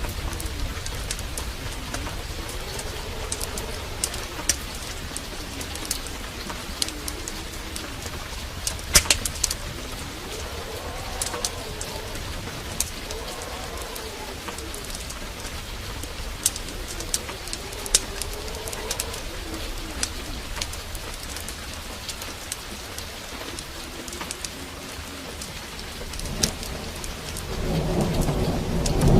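Steady heavy rain with a dove cooing in repeated low, rising-and-falling phrases and scattered sharp ticks. Thunder starts rumbling near the end and grows loud.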